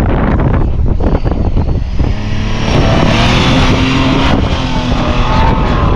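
Off-road vehicle's engine running in snow, holding a steady note from about two seconds in, with heavy wind buffeting the microphone.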